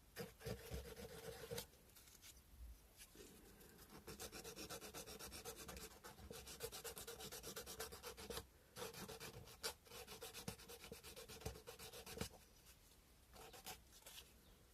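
Sandpaper being rubbed by hand over a cow-bone carving, in quick, faint back-and-forth scraping strokes. The strokes come in runs broken by a few short pauses, and grow sparser near the end.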